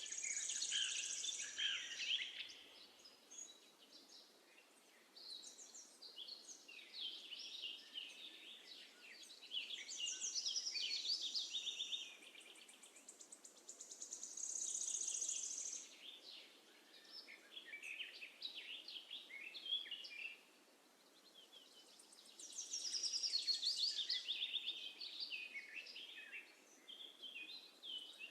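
Sparrows chirping: many quick chirps and short trills coming in bouts, with brief lulls between, over a faint steady background hiss.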